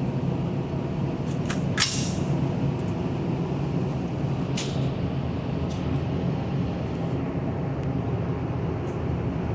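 Steady low hum of background machinery, with a few faint sharp cracks scattered through it.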